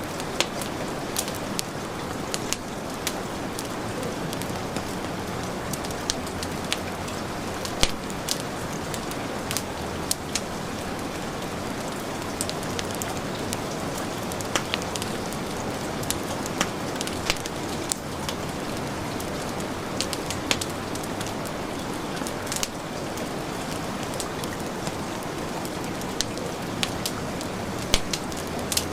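Steady heavy rain hiss mixed with a wood fire crackling: irregular sharp pops and snaps, several a second at times, over the even rush of the rain.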